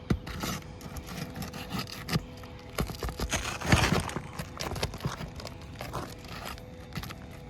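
Roofing pry tool working under a 3-tab asphalt shingle, scraping and knocking as it breaks the seal and pries at nails that will not pop up, with a louder scrape about halfway through.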